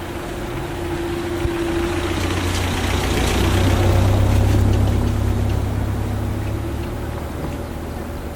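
A motor vehicle's engine passes by. Its hum and noise swell to a peak about four seconds in and then fade, and its pitch drops as it goes by.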